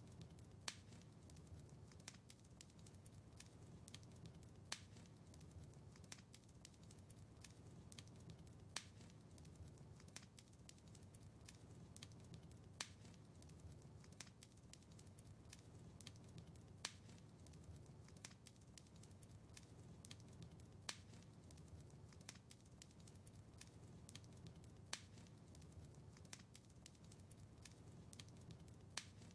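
Wood fire crackling quietly in a fireplace: a low steady rumble of flames with many small pops and a sharper snap about every four seconds, repeating evenly like a looped recording.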